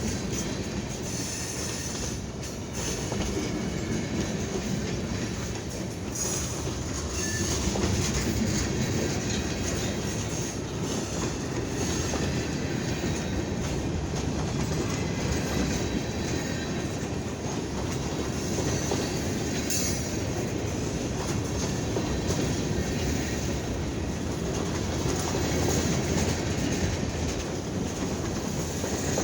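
A Kiamichi Railroad freight train rolling past, with a steady, unbroken rumble of steel wheels on the rails.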